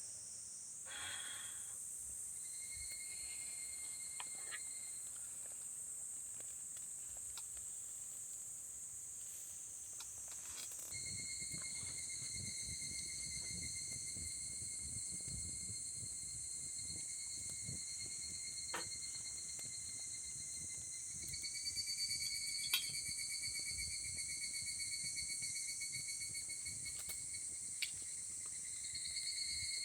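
Crickets and other insects chirring in the evening: a steady high shrill throughout, joined by a lower, even cricket trill a few seconds in and again from about a third of the way through. A few faint clicks.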